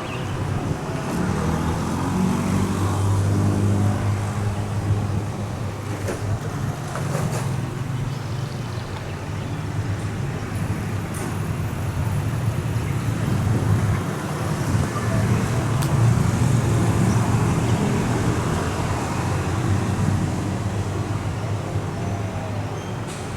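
A large vehicle engine running with a steady low hum, over a wash of mechanical and traffic noise; the hum swells twice.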